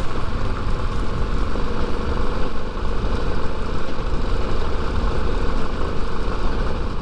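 Yamaha Serow 250's air-cooled single-cylinder engine running steadily, a constant low rumble.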